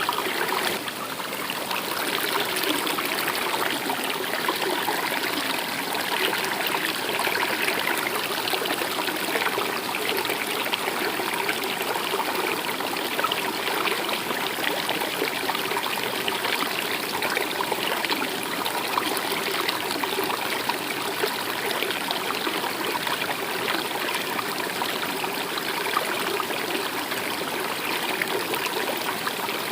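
A stream or small river running steadily, with a continuous rush and trickle of flowing water.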